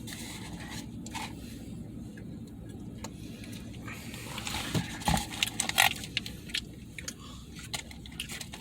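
Scattered rustling, scraping and clicking from handling food wrappers while eating, over a steady low hum. The loudest rustles come about five to six seconds in.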